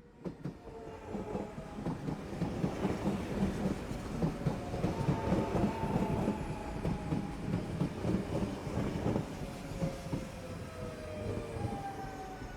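A dense, rattling rumble that fades in from silence and pulses unevenly, with a few faint high tones that slowly fall in pitch.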